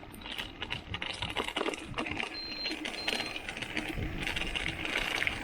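Bicycle bottle cage rattling with its bottle, a rapid irregular clatter of small clicks and knocks as the mountain bike rides over rough ground, over riding noise that grows louder.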